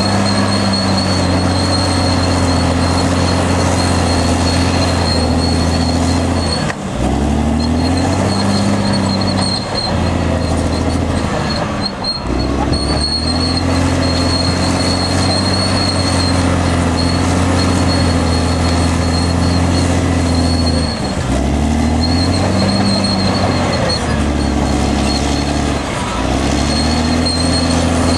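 Caterpillar D6R XL bulldozer's diesel engine running hard under load, its note dipping briefly and recovering about five times as the load changes. A thin high squeal from the steel tracks comes and goes over the engine.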